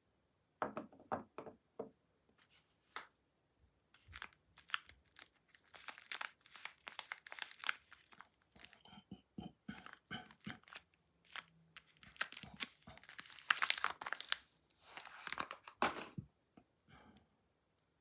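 Soap bar packaging being torn open and unwrapped by hand: irregular crinkling and tearing of the wrapper, with clusters of denser crackling partway through and again near the end.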